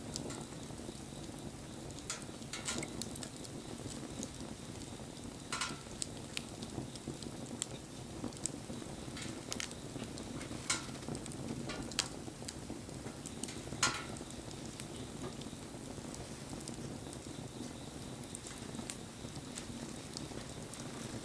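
Wood fire burning: a steady low rush of flame, with scattered sharp crackles and a handful of louder pops and snaps from the burning wood.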